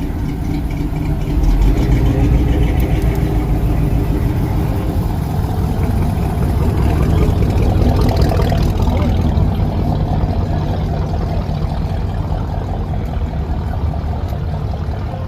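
Car engine running with a deep, loud rumble, louder from about a second and a half in.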